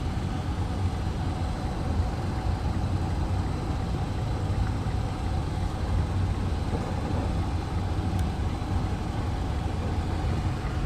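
2010 Citroën C-Crosser's engine idling: a steady low hum with a faint even hiss.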